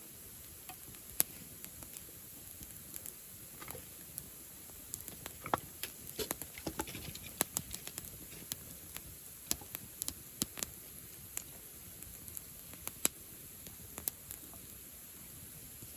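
Wood bonfire crackling: scattered sharp pops and snaps, busiest for a few seconds in the middle, over a faint steady hiss.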